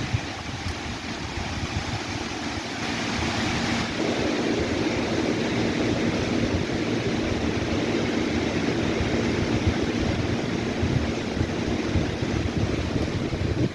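Wind blowing through trees and rustling leaves, with wind buffeting the microphone; the gust strengthens about three to four seconds in. A faint steady hum runs under it through the middle.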